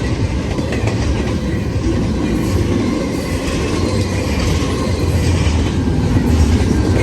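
A CN freight train's cars rolling past close by: a steady, loud rumble with wheel clatter over the rail joints.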